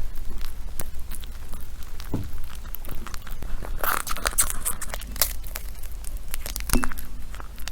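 Syrian hamsters gnawing and crunching nuts: a run of small crackling clicks and cracks, busiest about four seconds in, with a sharper crack near the end.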